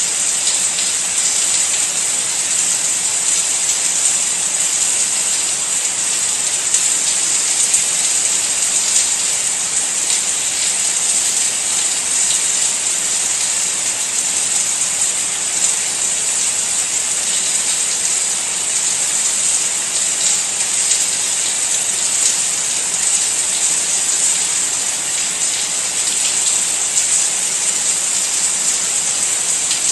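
Steady rain falling: an even hiss with the fine patter of many drops.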